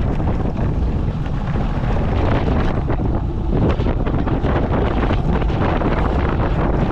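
Wind buffeting an action camera's microphone on a moving motorcycle, a loud, steady rumbling rush mixed with the bike's running and road noise.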